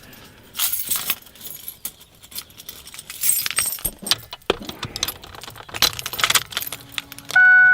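A bunch of keys jangling and clinking in the hand. Near the end an electronic chime starts beeping on and off.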